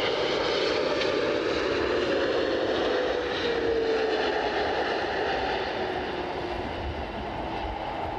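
Jet noise from an Air Canada Boeing 777-200LR's GE90 engines as the airliner passes, a steady rush with a tone that slowly falls in pitch and fades a little toward the end.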